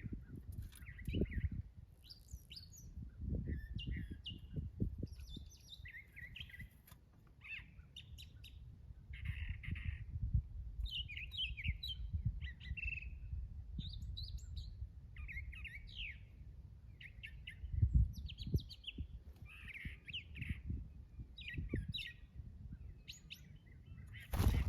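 Garden birds chirping and twittering, many short calls overlapping, over a low rumbling noise. A sharp knock sounds right at the end.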